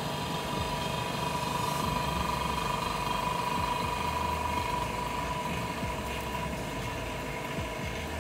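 OCA vacuum laminator running its cycle: a steady machine hum with a whine that is strongest in the middle and eases off later.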